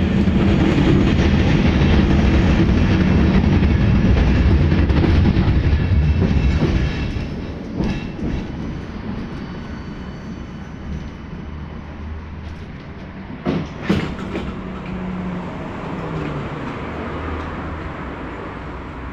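KTM 71-623 tram running on its rails with a loud low rumble and wheel clatter, which eases off to a quieter running noise about seven seconds in. Two sharp knocks come about two-thirds of the way through.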